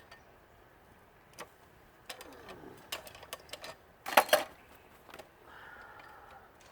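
Metal hand tools clicking and clanking against the metal parts of a central air conditioning unit as a nut is worked on. Scattered taps build to a sharp metallic clatter about four seconds in.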